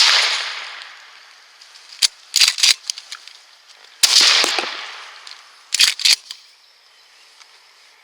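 Shotgun firing, a loud blast that echoes away over about a second, followed by a few sharp clicks. The same blast and clicks come again about four seconds in.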